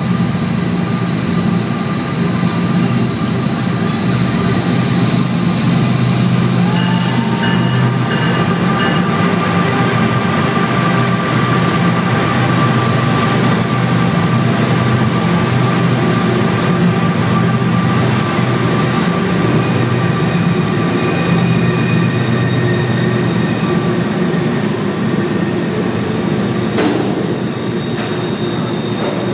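CSX freight train passing at close range inside a rock tunnel: diesel locomotives and then open hopper cars rolling by with a loud, steady rumble and wheel noise. Thin, steady high-pitched tones run over the rumble.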